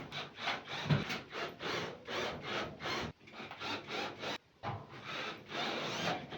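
Hand saw cutting wood, a steady run of back-and-forth strokes about three a second, with a brief pause a little past halfway.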